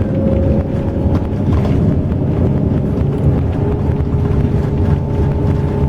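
Intercity bus running on the road, heard from inside: a steady engine and road rumble with a faint, even whine over it.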